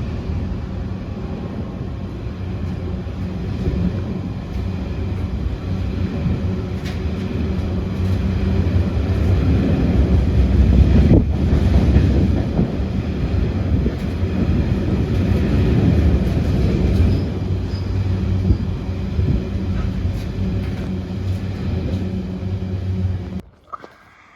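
Diesel train passing close by, its engine hum and wheel rumble on the rails growing louder toward the middle and then cutting off abruptly near the end.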